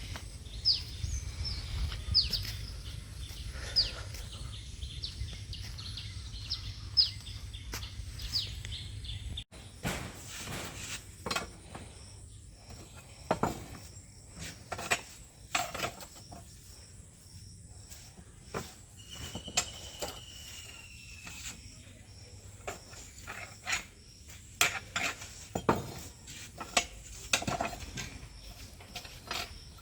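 Outdoor ambience: a short high falling chirp repeating about every second and a half over a low rumble, then after an abrupt change, scattered sharp clicks and taps with one longer falling whistle.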